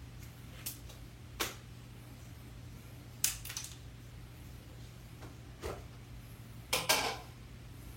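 Scattered sharp clicks and knocks, about six of them with a close pair near the end, from drywall tools and a container of all-purpose joint compound being handled, over a steady low hum.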